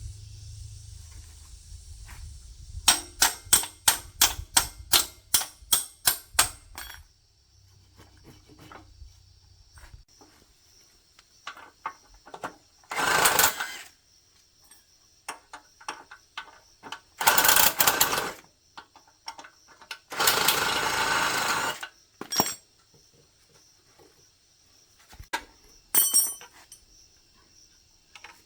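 Workshop tools at work on a motorbike: a quick run of about a dozen sharp knocks, roughly three a second, then three short bursts of hissing noise.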